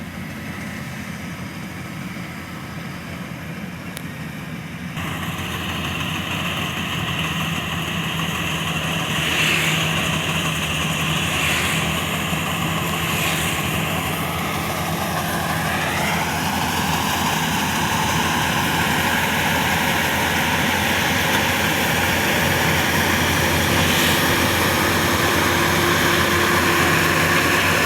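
Rice combine harvester's engine running steadily, with a higher mechanical whine joining in about five seconds in and rising in pitch around sixteen seconds; the machine grows gradually louder toward the end.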